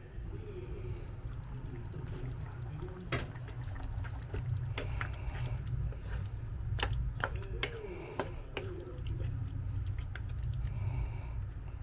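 Pot of chicken afritada simmering, with liquid bubbling and scattered sharp pops over a steady low rumble.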